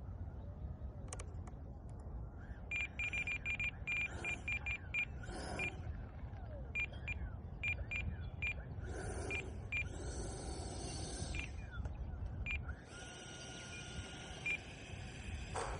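Short electronic beeps at one pitch, repeating irregularly over a low wind rumble on the microphone, with a steady electronic whine in the last few seconds.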